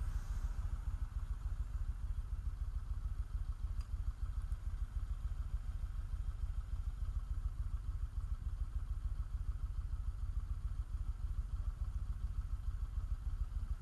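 Motorcycle engine running steadily, a low rumble with no change in pace.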